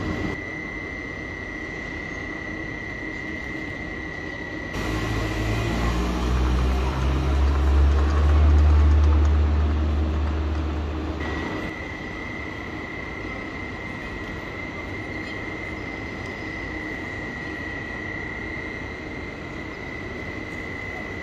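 Electric train in a station hall: a deep rumble swells in about five seconds in, peaks, and fades out about eleven seconds in, over the hall's background noise and a steady high-pitched whine.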